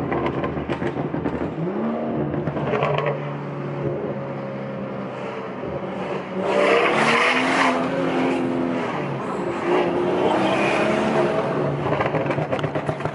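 BMW 340i's turbocharged inline-six heard from inside the cabin, accelerating in several pulls with the pitch rising each time, fitted with an aftermarket AP Racing intake that lets the turbo and induction noise through. The loudest pull, about six and a half seconds in, brings a strong rush of intake and turbo noise, and a quick run of crackles follows near the end.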